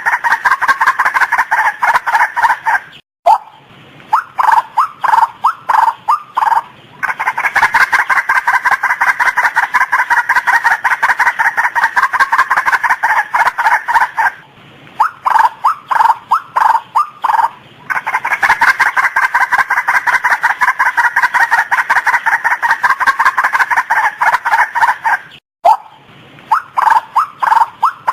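Female white-breasted waterhen calling: long runs of rapid, evenly repeated notes, broken every several seconds by a short gap and a phrase of slower, separate stuttering notes.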